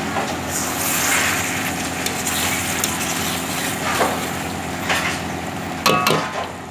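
Chicken pieces in masala sizzling in a hot pan, with a spatula stirring and scraping through them several times. A sharper metal scrape comes near the end.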